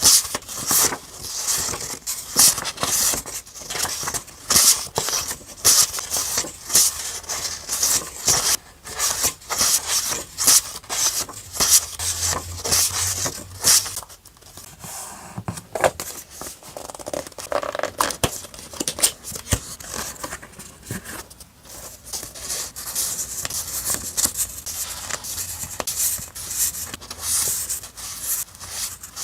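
Paper and stickers being handled by hand: a quick, uneven run of rustling, crinkling and peeling sounds, easing off briefly about halfway through.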